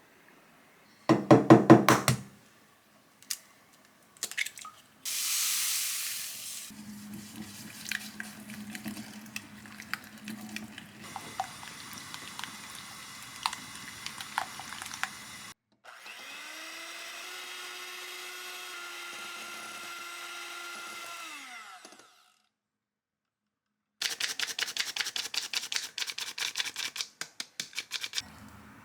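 A run of short kitchen preparation sounds: rapid knocks and clicks of utensils, then an electric mixer motor running steadily for about six seconds and winding down in pitch as it is switched off, followed by fast, even tapping near the end.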